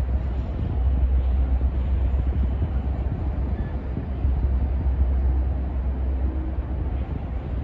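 BNSF coal train's cars rolling past, a steady low rumble of freight-car wheels on the rails.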